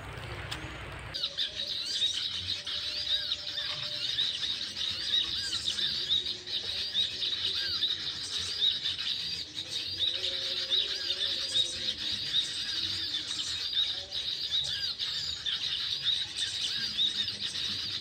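Prenjak (prinia-type small songbird) chirping: a dense, continuous run of short, high rising-and-falling chirps that starts abruptly about a second in and carries on without a break.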